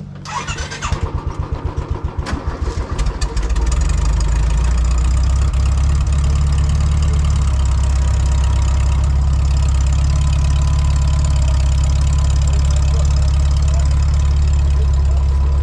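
A vehicle's engine cranked by the starter motor, catching about three and a half seconds in, then idling steadily.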